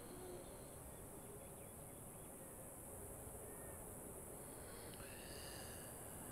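Quiet, steady background hiss with faint bird calls, the clearest about five seconds in.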